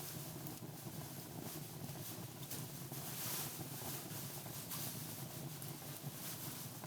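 Wood fire burning in a fireplace: a steady low rumble of flames with a hiss and scattered faint crackles.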